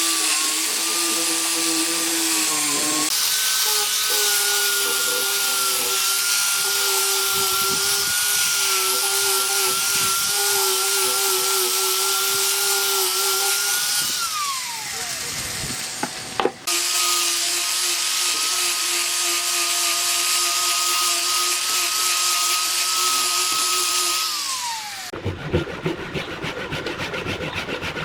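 A power tool working wood, its motor whining steadily under load in two long runs, each winding down with a falling pitch. A sharp knock comes between the runs, and near the end there are quick rhythmic scraping strokes on wood.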